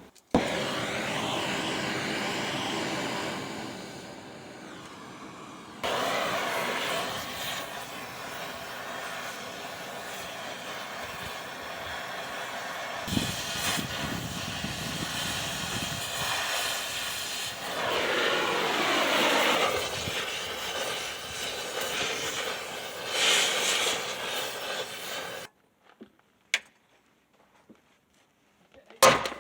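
Oxy-acetylene cutting torch running with a steady hiss while it cuts out a frame rivet. It stops suddenly about 25 seconds in, and a couple of short knocks follow near the end.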